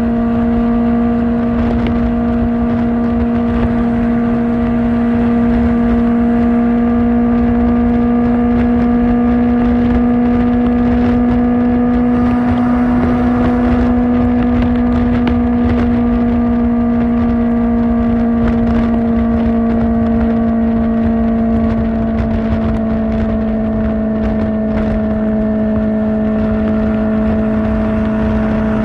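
Kawasaki Ninja ZX-4R inline-four engine through an Akrapovic exhaust, running at a steady cruise. Its pitch rises a little about halfway through, then eases back down, with a rush of wind underneath.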